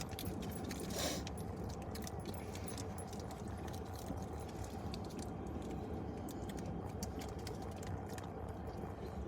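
Paper fast-food wrappers and bags rustling and crinkling in irregular small crackles, over a steady low hum.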